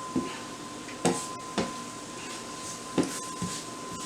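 A utensil stirring mushrooms coated in flour in a pan, knocking against the pan five times at uneven intervals. A steady faint high tone runs underneath.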